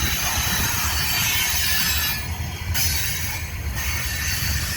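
Freight train cars rolling past at close range: a steady low rumble of steel wheels on rail under a dense hiss, with no clear rhythm of rail joints.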